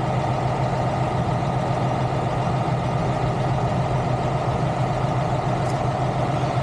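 A large diesel engine idling steadily: an even, unbroken low hum.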